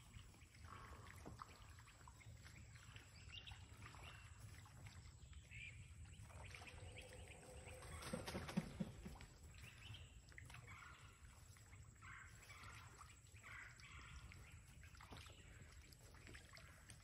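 Faint, scattered bird calls over a low steady background rumble, with one short louder sound of a few low pulses about eight seconds in.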